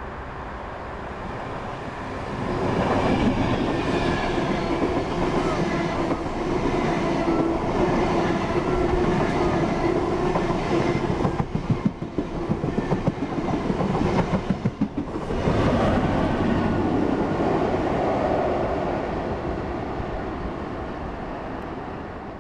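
Virgin Trains Class 390 Pendolino electric train passing along the platform. A rising rush as it approaches, then a rapid rhythmic clatter of wheels over the track as the carriages go by, fading away near the end.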